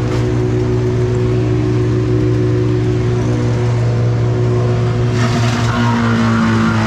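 An engine running steadily at a constant speed, with a rougher, hissing noise joining in about five seconds in.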